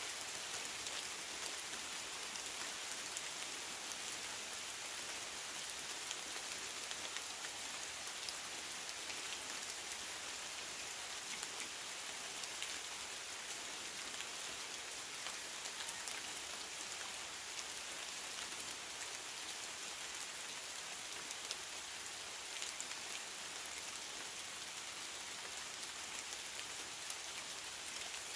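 Steady rain falling on the leaves of a hardwood forest: an even hiss with many single drops ticking through it.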